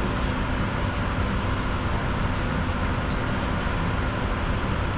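Steady flight-deck noise of a Bombardier Challenger 605 jet in descent: an even rush of airflow and air conditioning over a low rumble, with a few faint steady tones inside.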